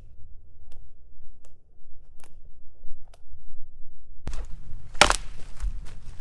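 Handling noise from pitching a tent in snow: a few sharp knocks, then about four seconds in a burst of crunching and rustling with one loud crack, over a steady low wind rumble.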